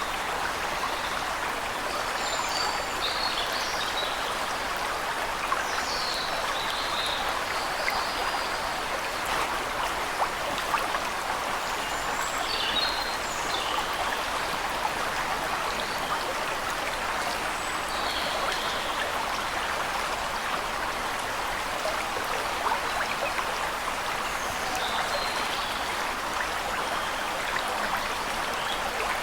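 Waterfall: a steady rush of falling water. Small birds chirp briefly and high above it every few seconds.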